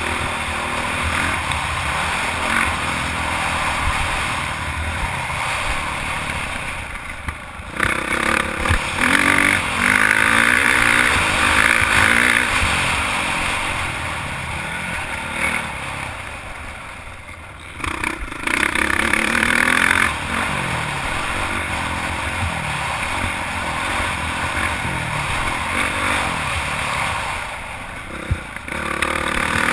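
Honda CRF450 four-stroke single-cylinder motocross bike engine being ridden hard, its pitch rising and falling as the rider works the throttle through the gears. Three times, roughly ten seconds apart, the throttle is chopped and the sound drops away briefly before it revs back up.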